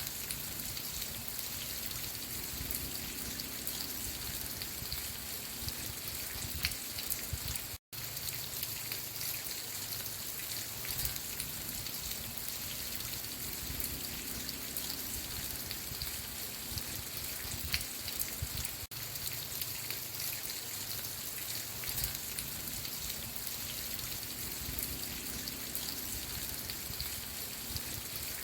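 Steady rain, with many individual drops heard as fine ticks over an even hiss. The sound cuts out completely for an instant about eight seconds in.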